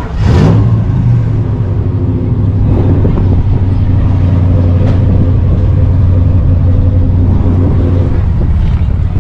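A car engine idling loudly and steadily, with a brief louder surge just after the start.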